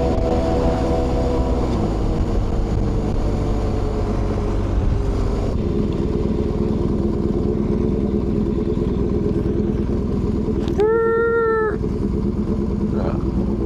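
Motorcycle engine running under way, its note easing down in the first couple of seconds and then holding a steady cruise. A little before the end a single honk-like tone sounds for about a second and stops sharply.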